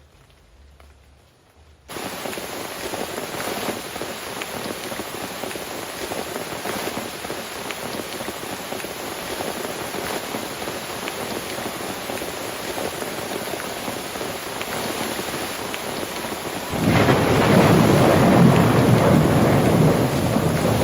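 Heavy rain falling, starting suddenly about two seconds in, with a loud rumble of thunder swelling over it near the end.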